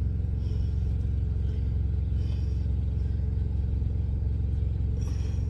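Steady low drone of an idling diesel engine heard inside a semi-truck's cab, with a few faint soft rustles of hands folding dough.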